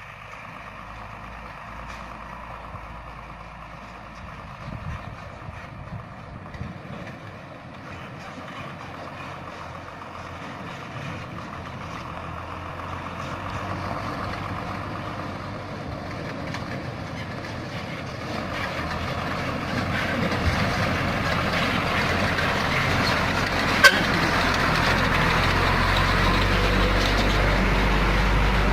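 Heavy diesel truck engine running under load and growing steadily louder as the truck draws closer. A single sharp knock comes near the end.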